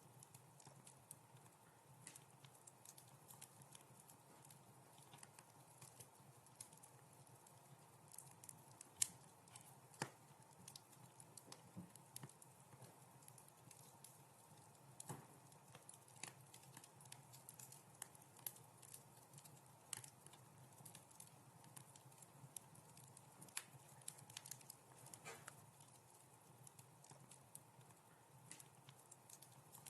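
Faint wood fire crackling in a fireplace: irregular small pops and snaps over a soft hiss, with one sharper pop about nine seconds in.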